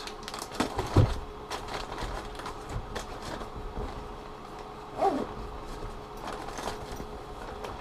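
Handling noise from small plastic water bottles in Ziploc bags: scattered light knocks and plastic rustles, with a thump about a second in and a brief pitched squeak around five seconds in.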